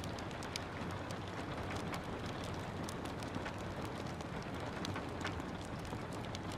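Steady rain hiss with a wood fire crackling through it: frequent sharp, irregular pops and snaps over the even wash of the rain.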